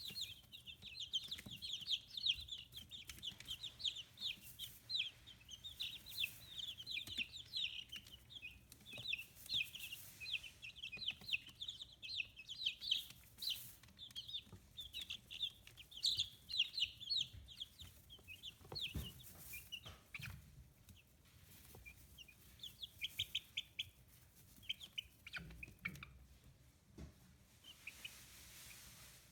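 A brood of fifteen-day-old chicks peeping: a dense run of quick, high chirps that thins out about two-thirds of the way through. A few soft thumps come in the later part.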